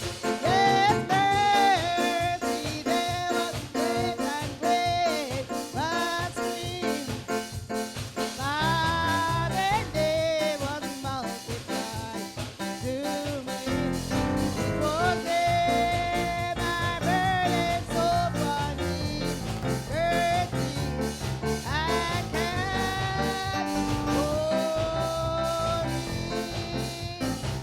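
Church band playing gospel hymn music with a steady beat and a gliding melody line; a bass part comes in about halfway through.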